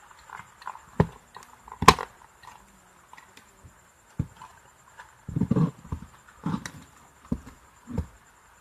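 Electric clothes iron being handled and put back together by hand: a series of sharp clicks and knocks of its parts, the loudest about two seconds in, with a cluster of duller knocks a little past the middle.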